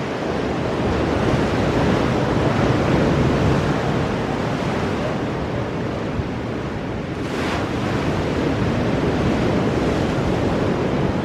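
Ocean surf breaking on rocks: a continuous, surging wash of waves that swells louder twice, with a short hiss of spray in between.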